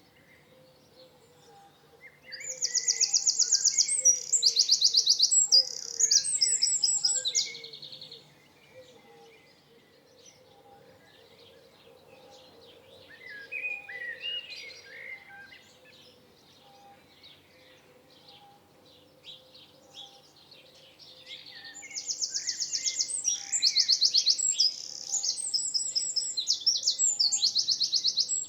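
A songbird singing two long phrases of fast, high trills, each lasting about five to six seconds. Between them a quieter bird calls in lower notes for a couple of seconds.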